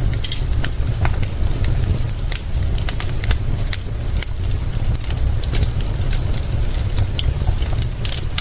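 Wood fire crackling, with frequent sharp pops and snaps scattered irregularly, over a steady hiss and a constant low rumble of rain.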